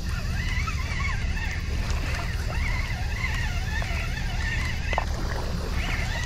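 Birds calling and chattering continuously in wavering, warbling tones over a steady low drone, with a single click about five seconds in.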